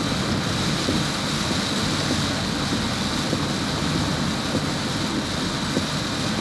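Steady, unbroken running noise of a vehicle on the move.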